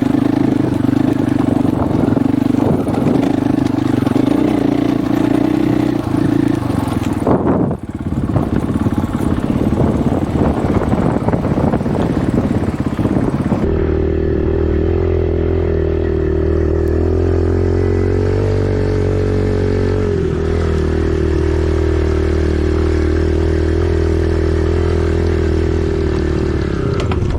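Single-cylinder four-stroke dirt bike engine running at a steady speed, with wind buffeting the microphone. The engine note dips briefly about eight seconds in and settles at a different steady note from about fourteen seconds in.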